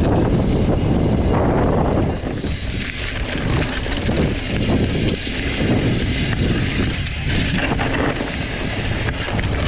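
Wind rushing over the microphone of a mountain bike riding down a dirt singletrack, mixed with the tyres rolling over the ground and brief rattles from bumps.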